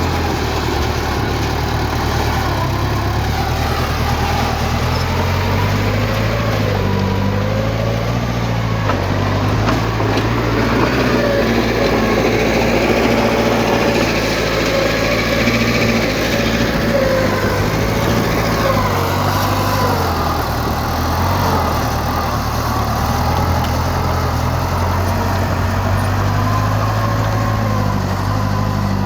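Heavy diesel engine of earthmoving machinery running steadily, with a wavering whine above the low engine note.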